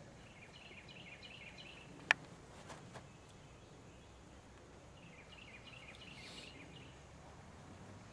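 Small birds twittering in two short bursts of quick chirps, one shortly after the start and one in the second half, over a quiet background, with a single sharp click about two seconds in and two fainter ticks soon after.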